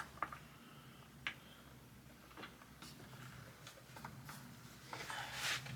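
Faint scattered clicks and light knocks of a skateboard being handled, with a short rustle about five seconds in.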